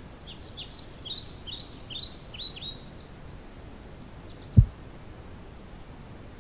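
Birds chirping: a quick run of short, downward-sweeping calls over steady background noise that fades out after about three and a half seconds. A little past halfway comes a single low thump, the loudest sound.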